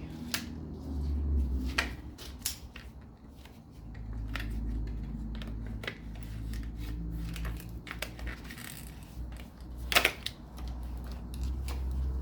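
Scattered clicks and knocks of hand tools and metal parts being handled while unbolting parts from a Nissan VG33E V6 engine, over a low rumble. One sharp knock about ten seconds in is the loudest.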